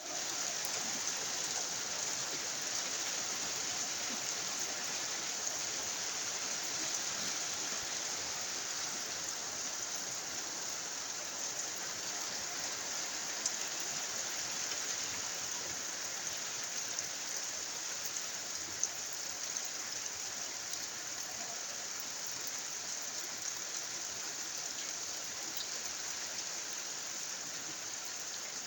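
Steady rain falling on a cornfield, an even hiss with a few louder individual drops ticking now and then.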